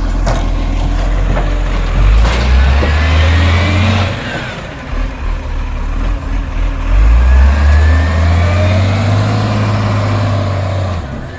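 Side-loader garbage truck's diesel engine revving up twice over its idle, each time for a few seconds, with a faint rising whine above it.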